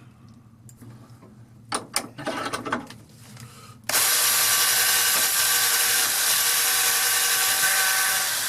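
A few light clicks of handling, then a small power tool with a cleaning wheel switches on about four seconds in and runs at a steady pitch, the wheel working rust off the tip of an old auger bit.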